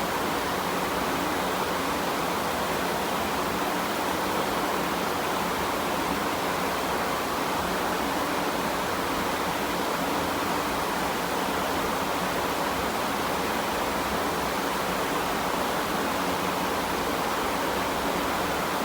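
Steady heavy rain, an even hiss with no separate drops or changes.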